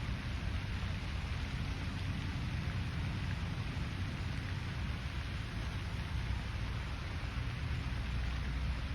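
Steady outdoor lakeside ambience: an even hiss over a low rumble, with no distinct bird calls, splashes or other events standing out.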